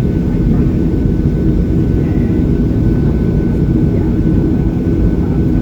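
Steady cabin noise of a Boeing 737-800 heard from a window seat: the CFM56-7B engines' dense low rumble with a thin steady whine above it.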